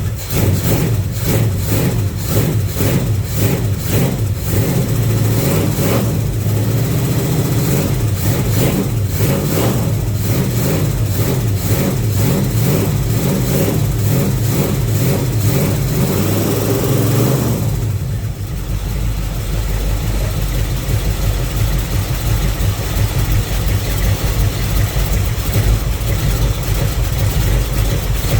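1970 Chevrolet Chevelle's carbureted engine running soon after a cold start, having sat unstarted for months, with an uneven, pulsing idle. About two-thirds of the way through it settles down to a lower, steadier idle.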